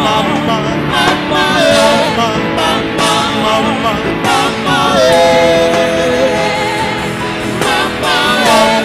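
Live gospel praise band playing, with a singer's wordless melodic line over it and one long held note about five seconds in.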